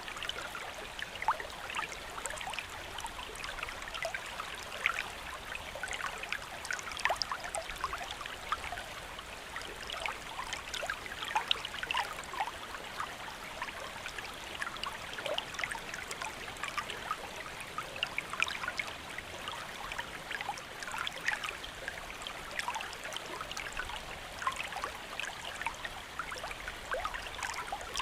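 Steady rain with many small irregular drop ticks and a trickling, running-water quality.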